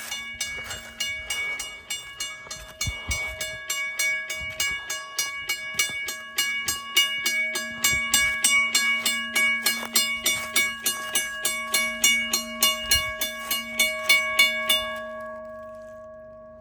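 Railroad crossing bell ringing with rapid, even strokes, about five a second. The strokes stop near the end and the ring fades away.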